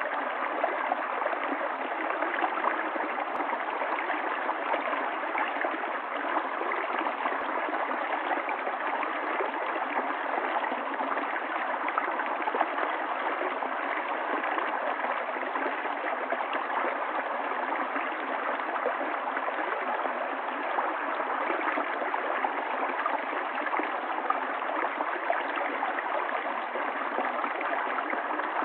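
Stream water running and gurgling in a steady flow.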